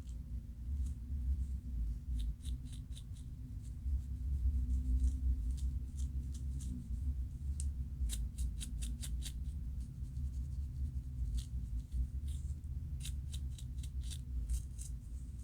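Scratching at the scalp to loosen dandruff flakes: quick, dry, scraping strokes that come in clusters, over a steady low hum.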